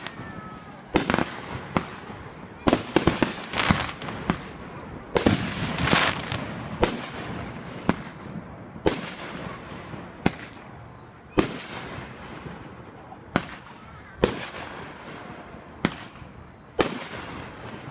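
Fireworks going off: a string of sharp bangs at irregular intervals, roughly one a second, each trailing off in an echo. A denser burst of crackling comes about a third of the way in.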